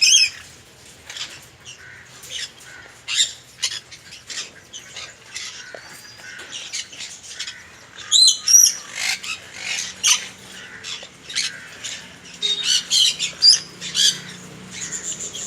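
Conure giving short, harsh squawks again and again at irregular intervals. The loudest clusters come about halfway through and again near the end.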